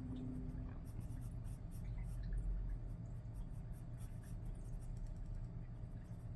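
Graphite pencil scratching on paper in quick, irregular sketching strokes, over a low steady hum.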